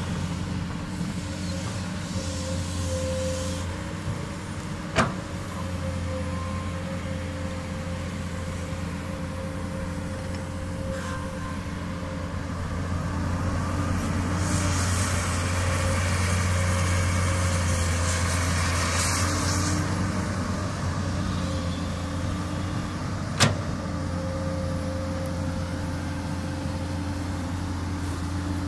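Komatsu PC200 hydraulic excavator's diesel engine running steadily, a low hum with a few held tones above it. Two sharp knocks come about 5 and 23 seconds in, and a louder rushing hiss lasts several seconds past the middle.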